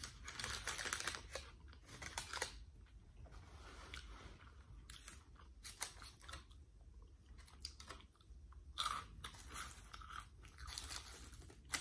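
Close-up eating sounds: a mouthful of chicken burrito and Flaming Hot Cheetos being chewed, with bursts of crunching in a few clusters, the loudest at the start and again near the end.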